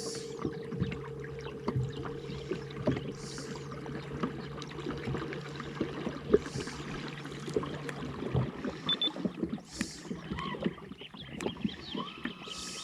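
Kayak on the water, with small splashes, knocks and water noise around the hull and a soft swish about every three seconds. A steady motor hum runs underneath and stops about eight seconds in.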